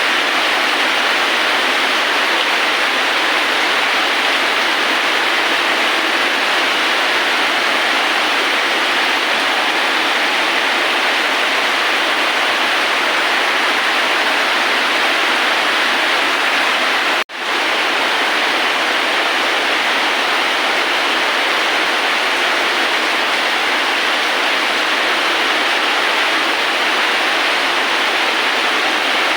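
Steady heavy rain as an even, unbroken hiss, which cuts out for a split second a little past the middle.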